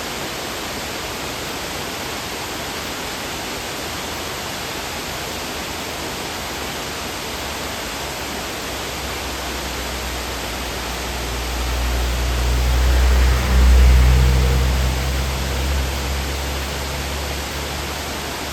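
Waterfall rushing steadily. A low rumble swells in from about halfway, is loudest a little past the middle, then fades away.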